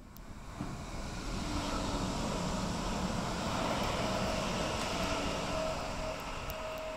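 A train passing: a steady rumble and rush with a few faint whining tones, building over the first two seconds and easing a little near the end.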